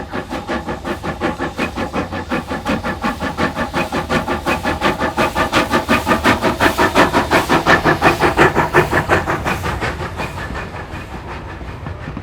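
NZR Ww class 480 steam tank locomotive working hard, its exhaust beating in rapid, even chuffs of about five a second, growing louder to a peak about eight seconds in and then fading as it goes past.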